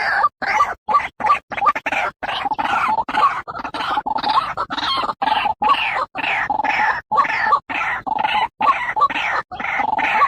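White-breasted waterhen calling: a long, rapid run of short harsh croaking notes, about three a second.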